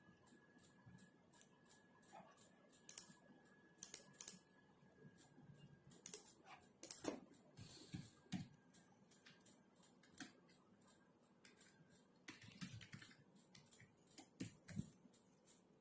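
Quiet typing on a computer keyboard: irregular keystroke clicks in uneven runs and pauses, a few louder key presses among them. A faint steady high whine fades out about halfway through.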